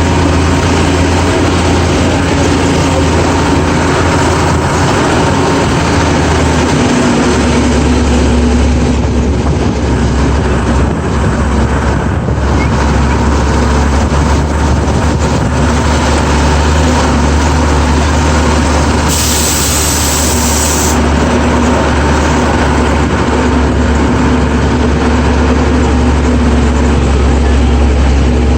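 GMC DUKW amphibious truck's straight-six engine running steadily under way, a loud low drone heard from on board. A brief hiss cuts in and out about two-thirds of the way through.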